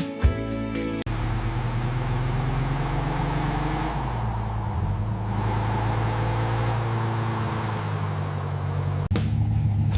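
A car engine running with a steady low note whose pitch drifts slowly up and down. It cuts in suddenly about a second in and stops abruptly near the end, where music comes back.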